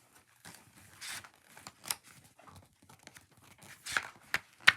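Paper rustling and crinkling in short strokes, as a book's pages are handled and turned, with a sharp paper snap near the end.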